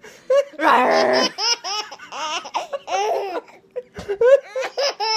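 A baby laughing in a string of short, repeated bursts, with one longer, louder laugh about a second in.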